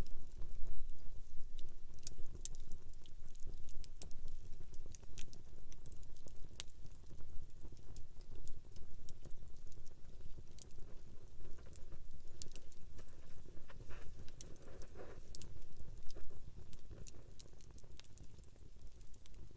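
Wood campfire crackling, with frequent sharp irregular pops and snaps over a low steady rumble.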